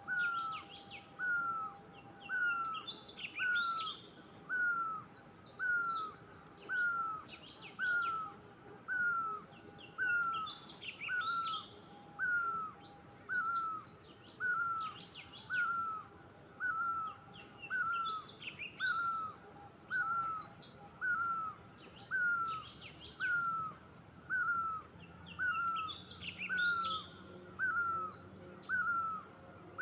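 Birdsong from at least two birds. One repeats a short falling whistle steadily, a little more than once a second; another sings varied, high, twittering phrases every second or two.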